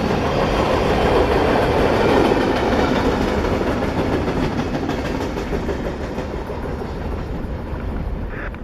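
A train rolling past on the rails, its wheels clacking steadily, growing fainter over the last few seconds as it moves away.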